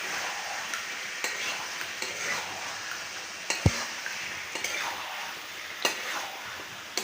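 Chicken and masala sizzling as they fry in a pan, with a spatula stirring and scraping, making scattered clicks against the pan and one louder knock about three and a half seconds in.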